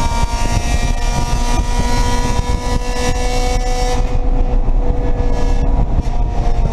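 Race car engine held at high revs under load along a straight, its note rising slowly and steadily, heard from inside the stripped, roll-caged cabin. About four seconds in, the hiss above the engine thins out.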